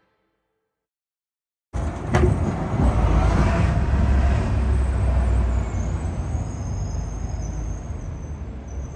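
Near silence for under two seconds, then loud outdoor noise starts suddenly: a steady low rumble, like traffic or wind on the microphone, with a single click shortly after it begins.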